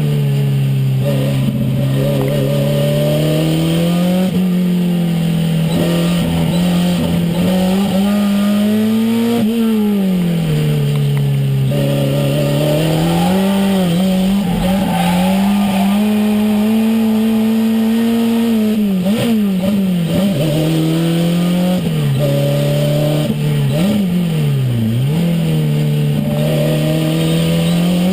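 Renault 5 Turbo's turbocharged four-cylinder engine heard from inside the car at speed, its note climbing, holding and dropping again and again as it accelerates and lifts off, with a few sudden drops in pitch.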